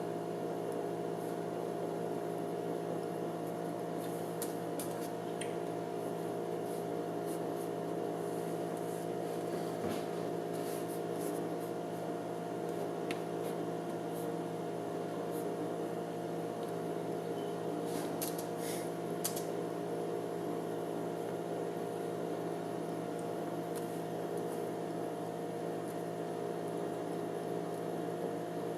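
Spinning gyroscope giving a steady hum of several fixed tones, its pitch holding level. A few faint ticks sound now and then.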